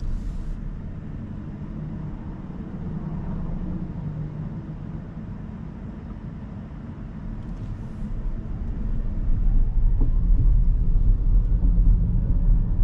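Steady low road and tyre rumble inside the cabin of a 2023 Rivian R1S quad-motor electric SUV on the move, with no engine note; the rumble grows louder about eight seconds in.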